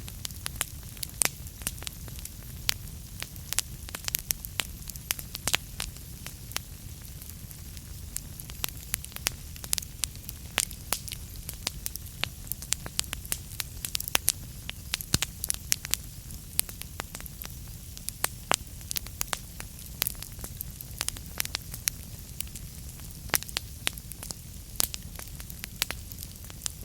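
Wood fire burning in a fireplace, crackling with frequent sharp pops and snaps at irregular intervals over a steady low rumble and hiss.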